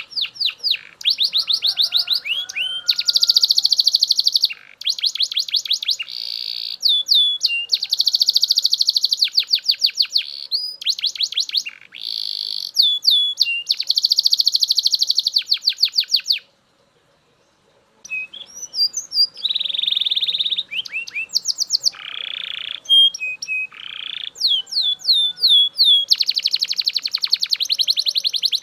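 Belgian canary singing: long, fast trills of rapidly repeated high notes and buzzy rolls, one phrase after another. There is a silence of about a second and a half a little past the middle.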